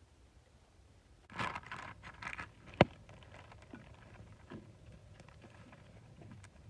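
Rustling and handling noise starting about a second in, then a single sharp knock, the loudest sound, followed by a few light taps.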